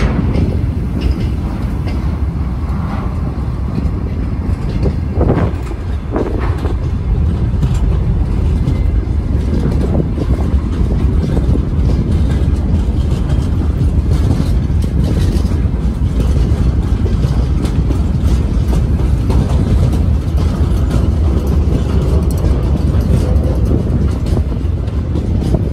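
Freight wagons of a passing train (hopper, gondola and tank cars) rolling over the rails, a loud steady rumble of wheels on track. A couple of sharper clanks come about five and six seconds in.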